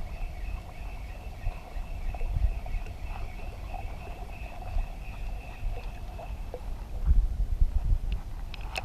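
Wind buffeting the microphone: an uneven low rumble that swells in gusts, strongest near the end, over a faint steady hum.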